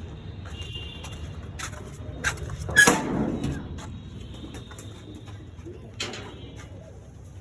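A few sharp knocks and clatter in a pigeon loft, the loudest about three seconds in, over a low steady rumble, with faint high chirping from the birds.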